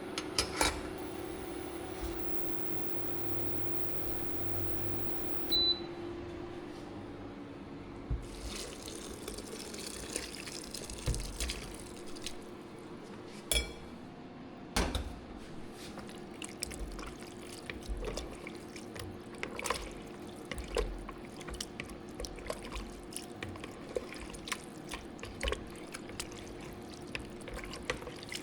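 Kitchen sounds of water and liquid being poured and handled, with scattered clicks and knocks, over a steady hum.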